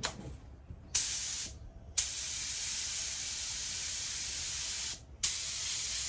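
Compressed-air paint spray gun hissing as its trigger is pulled: a short burst about a second in, a longer spray of about three seconds, then another spray starting near the end, each starting sharply.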